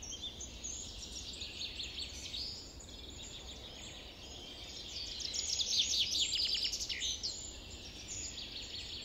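Songbirds chirping, with many short high calls overlapping. About halfway through, one bird gives a slightly louder quick series of repeated falling notes.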